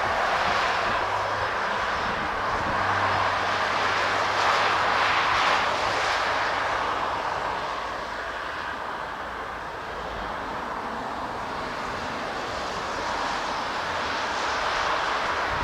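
Airbus A220-100's Pratt & Whitney PW1500G geared turbofan engines rushing as the airliner comes in to land. The sound is loudest in the first six seconds, eases off around ten seconds, then builds again near the end.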